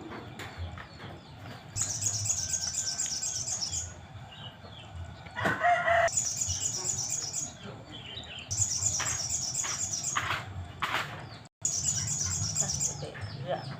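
Sogon (sogok ontong) bird singing: high, rapid trilled phrases of about two seconds each, repeated four times with short gaps. A short, louder, lower call breaks in about five and a half seconds in.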